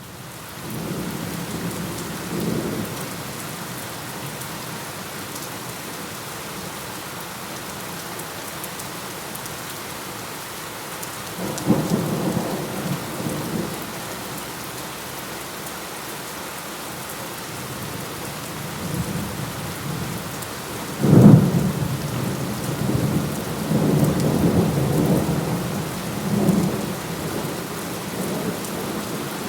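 Steady heavy rain with thunder: a rumble about a third of the way in, then a sharp, loud thunderclap a little past two-thirds of the way through that rolls on for several seconds. The rain fades in from silence at the very start.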